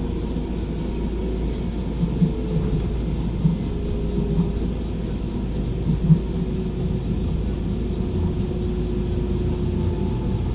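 Docklands Light Railway train running, heard from inside the carriage: a steady low rumble with a faint motor whine that slowly falls in pitch. There are a few louder knocks.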